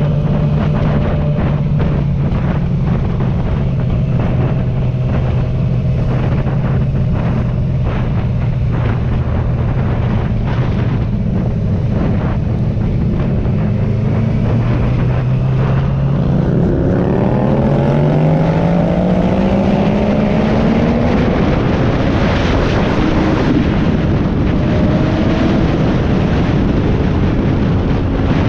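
Sport motorcycle engine running at a steady cruise, heard with wind noise on the microphone. About halfway through the engine pitch climbs for several seconds as the bike accelerates hard, then holds high.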